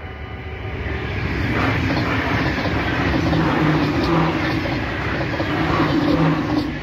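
NS ICMm intercity electric multiple unit passing at speed, with a dense clatter of wheels over the rails. It builds over the first second and a half, stays loud while the cars go by, and drops away sharply near the end as the last car clears.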